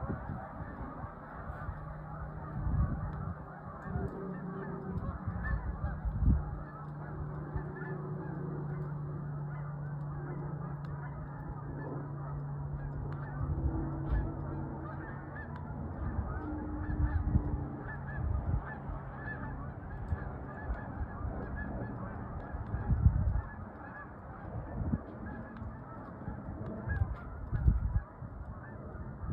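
A large flock of Canada geese honking in flight overhead, a continuous chorus of many overlapping honks. A steady low hum runs under the calls for about the first half, and there are occasional low thumps.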